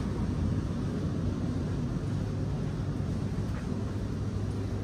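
Steady low hum and rumble inside a passenger train carriage, with a constant hum under a broad hiss.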